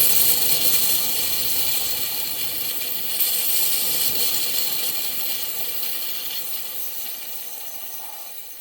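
Compressed air hissing steadily out of a 6.0 Powerstroke diesel's high-pressure oil system, pressurised through the ICP sensor port, fading slowly and stopping near the end. The hiss is the sign of a leak in the high-pressure oil rail, which the mechanic takes for a failed standpipe O-ring.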